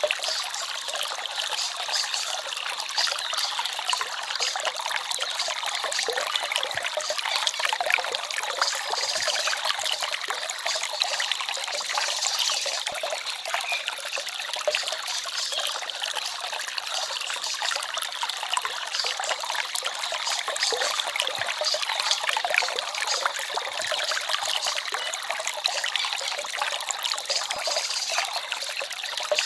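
Small forest stream trickling and babbling, a steady rush of running water with no pauses.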